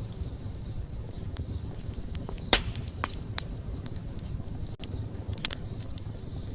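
Wood fire burning: a steady low rumble of flames with irregular sharp crackles and pops, the loudest pop about two and a half seconds in.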